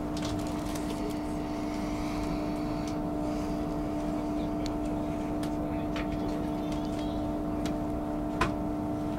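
Inside a passenger train under way: a steady low rumble of the wheels on the rails with a steady hum over it, and a couple of faint clicks near the end.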